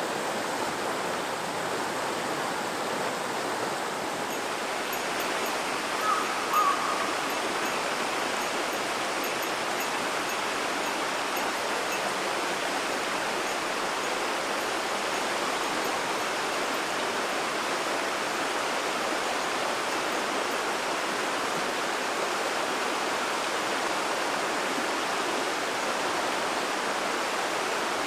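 Azusa River, a clear snowmelt mountain river, flowing in a steady, even rush of babbling water. Two short, slightly louder higher sounds come about six seconds in.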